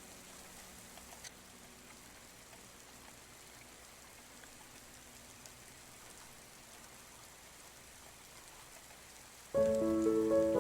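Steady patter of rain heard from inside a house, with faint scattered drips. Near the end a soft piano comes in suddenly, playing several notes at once, much louder than the rain.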